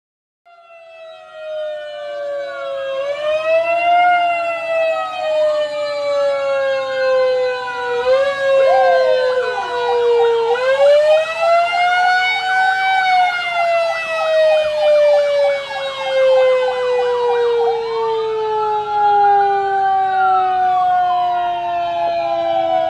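Several emergency-vehicle sirens sound at once, their wails overlapping as they rise and fall in pitch. In the middle, one switches to a fast, rapid-fire yelp, while others hold long tones that slowly fall in pitch.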